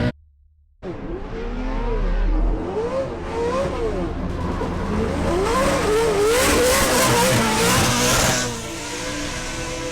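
900 hp Toyota Tacoma drift truck's engine revving hard and swinging up and down over and over as it is drifted. A loud tyre squeal runs for about three seconds in the middle. It starts after a brief silent gap.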